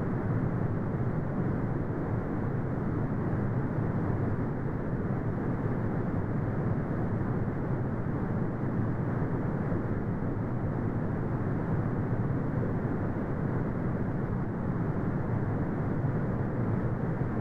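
Brown noise: a steady, deep rumbling hiss with most of its weight low down and little treble, unchanging throughout.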